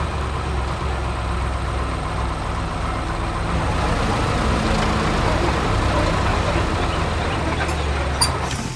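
Heavy construction machinery's diesel engine running steadily with a low drone, such as an excavator or dump truck at a quarry. There is a sharp metallic clack near the end.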